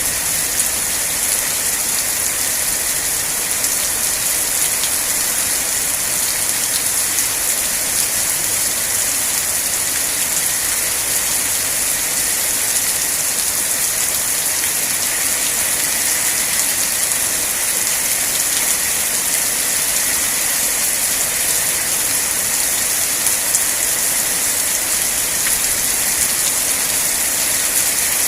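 Steady rain falling, a constant high hiss of drops on surfaces with small scattered drop ticks.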